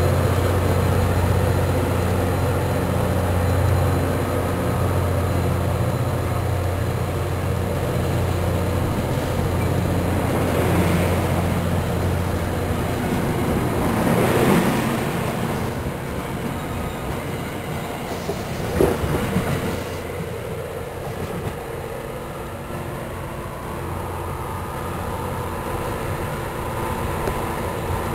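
New Jersey Transit commuter train rolling past close by and pulling away: a steady low hum with rolling rail noise, swelling about halfway as the last cars pass, then one sharp knock from the wheels a few seconds later. The sound then dies down to a fainter rumble as the train leaves.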